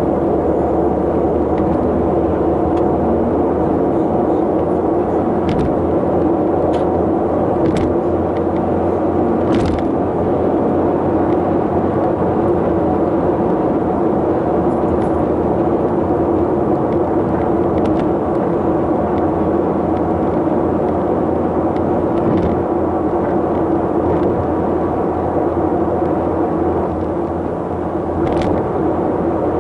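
Steady running noise of a vehicle on the road, engine and tyre noise, with a few faint brief clicks.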